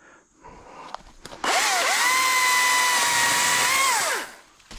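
ECHO DCS-2500T battery top-handle chainsaw triggered on: its electric motor spins up quickly and holds a steady whine for about two seconds, then winds down when released.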